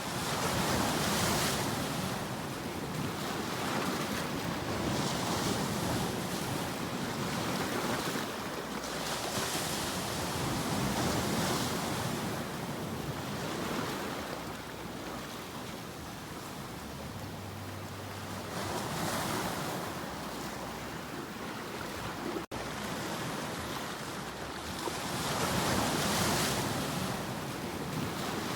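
Ocean surf: waves breaking and washing in, the noise swelling and easing every few seconds, with wind. A momentary break in the sound comes about three-quarters of the way through.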